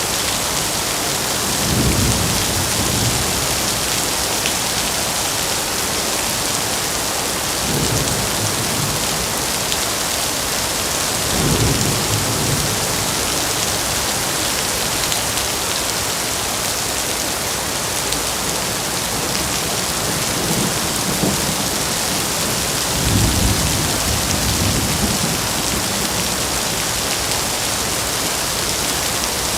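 Steady heavy rainfall, a dense even hiss of rain on surfaces, with a deep low rumble swelling up and fading every few seconds, about six times.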